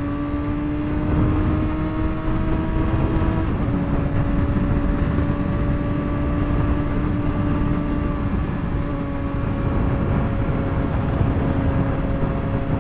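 Straight-piped 2007 Suzuki GSX-R600 inline-four under way at highway speed, over steady wind and road noise. Its pitch climbs slowly, steps down once about three and a half seconds in as the rider shifts up, then holds steady.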